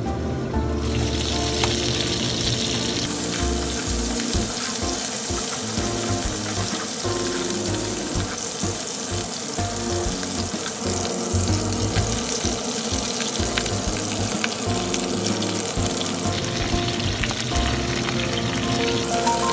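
Chicken pieces sizzling in oil in a frying pan, the sizzle getting louder and brighter about three seconds in, with a wooden spatula scraping and stirring the pieces.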